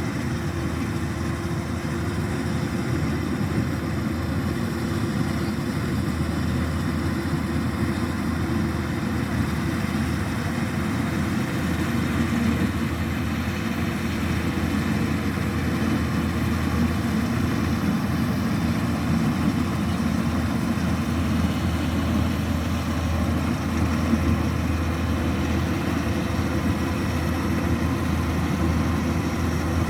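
Kubota DC-105X rice combine harvester running steadily while it harvests rice: an even, unbroken diesel engine and machinery drone.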